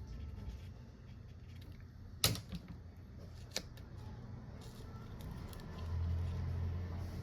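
Two sharp clicks of a small hard object, the first about two seconds in and the loudest, the second about a second later, with a few faint ticks, over a low steady hum that gets louder near the end.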